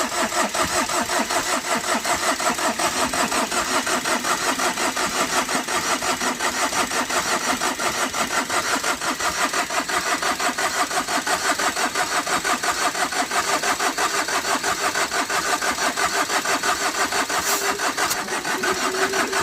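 Tata Vista's starter motor cranking the engine in one long, unbroken spell, with an even chug of about four compression strokes a second, and the engine never catches. The owner takes this to mean the engine has failed from overheating: water has got into it, compression is escaping through the radiator, and the starter is sticking as the engine tightens up.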